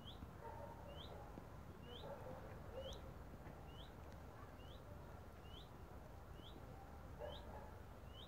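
A small bird repeating one short, high chirp about once a second, faint, over a low outdoor rumble.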